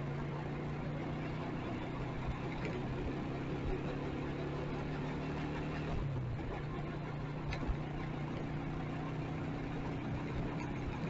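Motorcycle engine running steadily at low revs, its pitch shifting slightly about six seconds in, with a couple of faint clicks.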